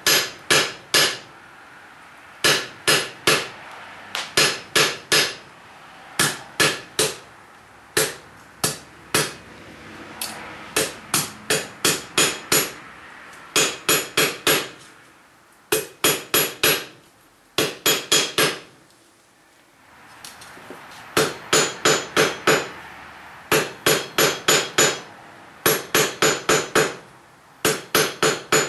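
Hand hammer striking a hot 1/4 inch round bar on a steel anvil, the strikes ringing, in quick groups of three to six with short pauses between: the blacksmith is drawing a square taper on the point of a hand-forged nail, turning the bar a quarter turn between hits.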